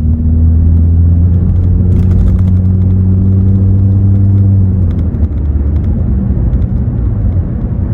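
2017 Honda Accord LX's 2.4-litre four-cylinder engine with a muffler delete, heard from inside the cabin while driving: a loud, steady exhaust drone that drops away about five seconds in, leaving a rougher rumble.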